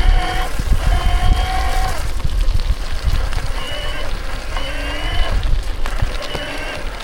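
Mountain bike riding over a rough trail: gusty wind rumble on the camera microphone with tyre and gravel noise. Several short, high-pitched squeals of steady pitch come and go over it.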